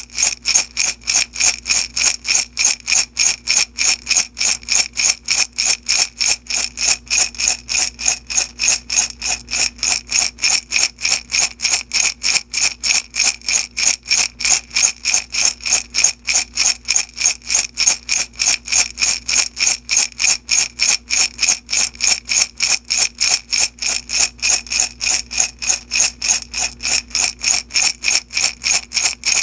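Beads shaken back and forth in a glass jar, rattling in a steady, even rhythm of about three shakes a second without a break.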